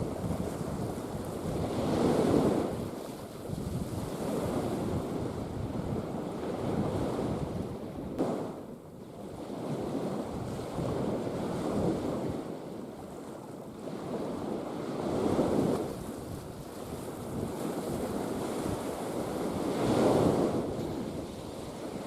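Mediterranean sea waves surging and washing in, swelling and falling away every few seconds, with wind buffeting the microphone.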